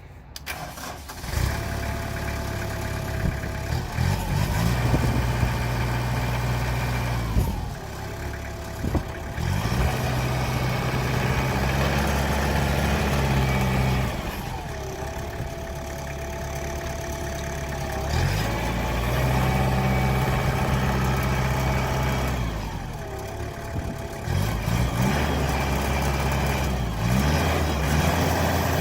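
Kubota M8200 tractor's diesel engine running, revved up and let back down to idle about four times.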